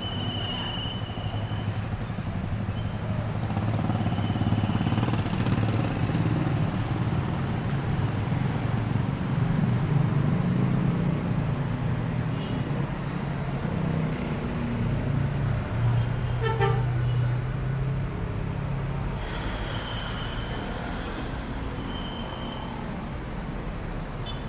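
Large coach's diesel engine running, its rumble swelling and easing, with several short high toots and a loud burst of air-brake hiss near the end.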